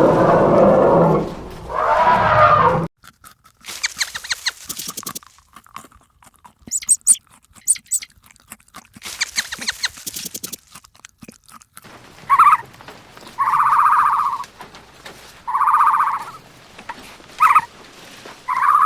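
Loud animal sound cutting off about three seconds in, then several seconds of scattered crunching, chewing-like clicks, then a run of short pitched animal calls, about five of them, each up to a second long.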